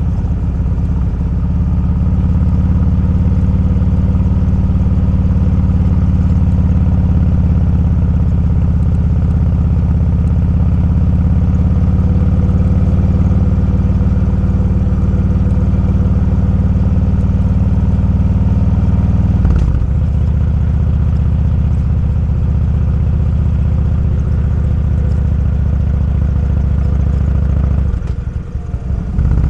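Motorcycle engine running steadily while riding. Its note changes briefly about two-thirds of the way through, as at a gear shift, and the level dips for a moment near the end.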